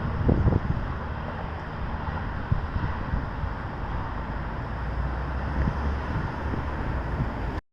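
Wind buffeting the microphone over a steady rumble of traffic; the sound drops out completely for a moment near the end.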